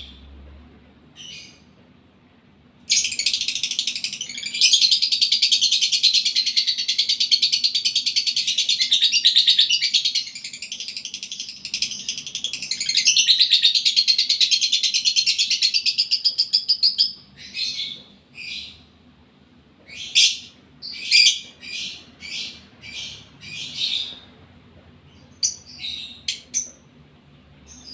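Lovebird in breeding condition singing: a long, fast, unbroken high chatter lasting about fourteen seconds, then a run of short separate chirps.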